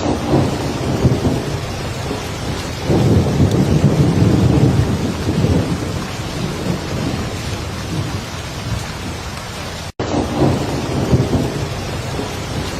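Heavy rain falling steadily, with low rolling thunder rumbles that swell up three times. The sound drops out for an instant about ten seconds in.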